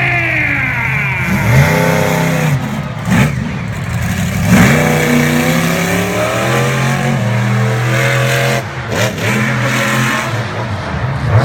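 Monster truck engine revving, its pitch rising and falling several times as the throttle is blipped and held.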